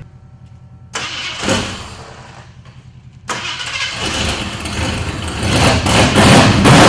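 1982 Jeep CJ7 engine starting: a short burst of cranking about a second in that dies away, then a second start a little past three seconds that catches and keeps running, getting louder toward the end.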